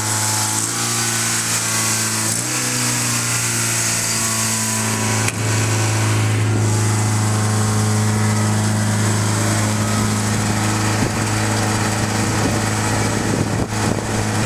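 Toyota 4A-GE 1.6-litre twin-cam four-cylinder engine, swapped into a Starlet, running at a steady fast idle, with a couple of slight shifts in pitch and a click about five seconds in, after which it is a little louder. The high idle is what the owner sets out to fix by adjusting the throttle body for a new throttle position sensor.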